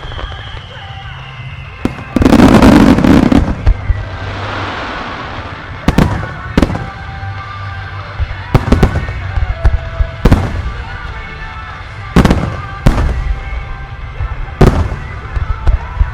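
Aerial fireworks shells bursting over background music. There is one large burst about two seconds in, then about ten sharp bangs spread irregularly through the rest.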